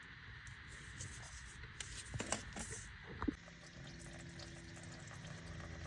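Old engine oil draining from a 2019 Volkswagen Tiguan's oil pan through the open plastic drain plug hole into a catch pan: a faint, steady trickle. A few light knocks come about two to three seconds in.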